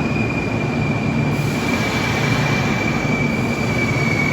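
Kintetsu Hinotori limited express train moving along the platform, its wheels giving one long, high, steady squeal that sinks slightly in pitch over the rumble of the cars.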